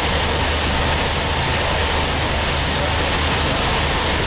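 Steady running noise inside a passenger train car at speed: an even rumble and rush of wheels and air with a constant low hum underneath.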